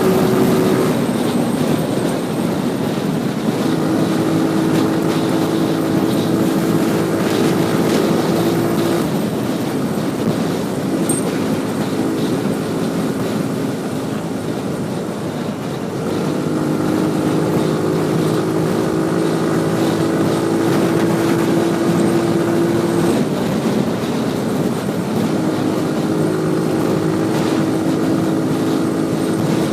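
Motorcycle engine running while riding along, under a steady rush of wind and road noise. The engine note drops back for a few seconds about halfway through, then picks up again.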